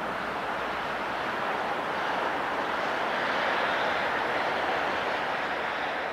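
Passenger train rolling away along the track: a steady rush of wheels on rails, with no engine note standing out.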